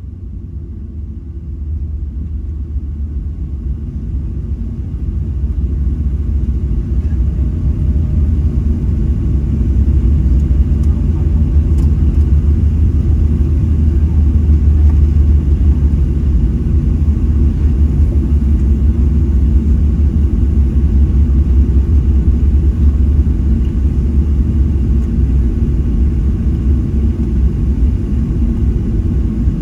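Boeing 737-800 airliner heard from inside the cabin during landing: a loud, low rumble that builds over the first ten seconds or so and then holds steady.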